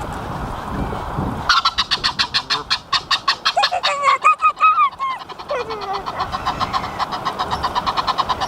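Geese honking and calling, starting about a second and a half in as a rapid run of calls at about eight to ten a second, with a few separate rising and falling calls mixed in.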